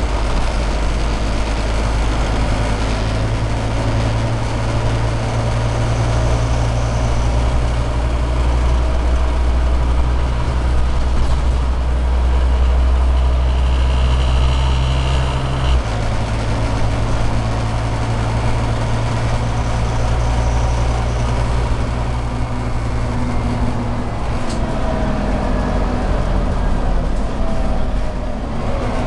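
Scania OmniCity second-series Euro 4 city bus heard from on board, its engine running as the bus drives: a steady low drone whose note drops about halfway through, with a faint rising tone near the end as it pulls away again.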